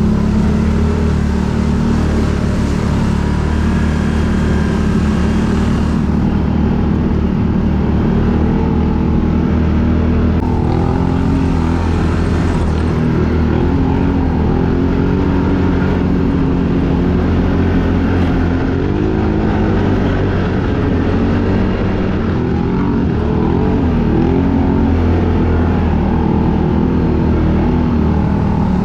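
Quad bike engine running steadily at low revs, its pitch wavering up and down a little in the middle.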